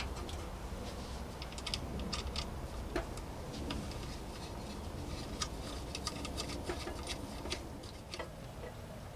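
Irregular light clicks and taps of hand tools and small metal and plastic parts being handled, over a steady low rumble.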